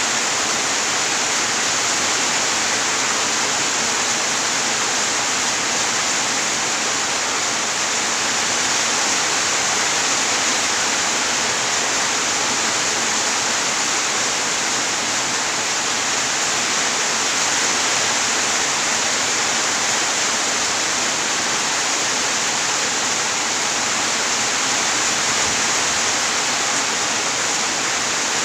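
Steady heavy rain, an even unbroken hiss with no thunder or separate drops standing out.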